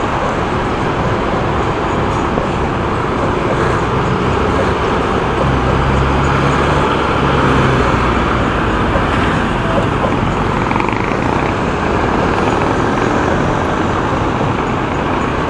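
Steady road and traffic noise heard while riding a motorcycle through city traffic, a continuous rush, with a low vehicle engine hum swelling about five to eight seconds in.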